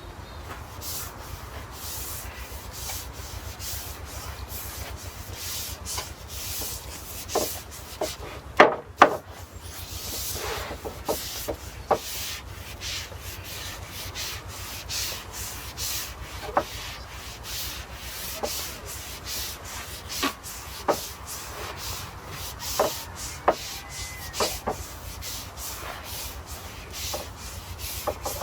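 Brush bristles stroking oil onto European larch planks, a run of repeated scratchy rubbing strokes. A few sharp clicks stand out, the loudest two close together about nine seconds in, over a steady low hum.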